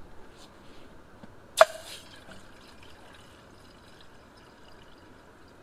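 Camp cookware being handled: one sharp metallic clink about one and a half seconds in, ringing briefly, amid faint small handling sounds.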